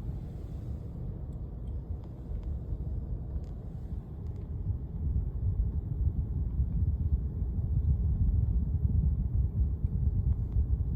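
Strong gusty wind buffeting the microphone, a low irregular rumble that grows stronger in the second half.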